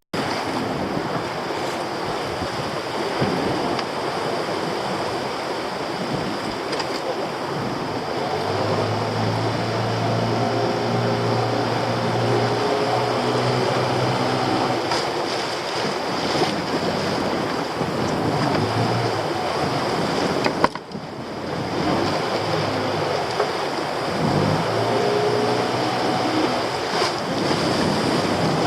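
Heavy swell and surf washing around a small boat, with wind buffeting the microphone. The boat's engine note comes up under throttle for several seconds midway and again near the end as it manoeuvres. A sharp knock about two-thirds of the way through.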